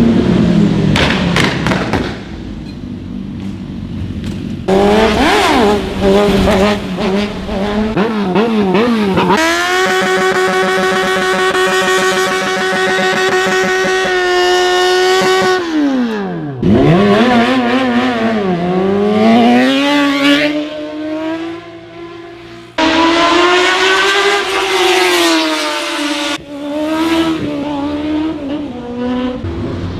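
High-revving superbike engines in a run of short clips: revving up and down with quick gear changes, a long run held at high revs, and a bike passing about halfway through, its pitch dropping sharply and then climbing again.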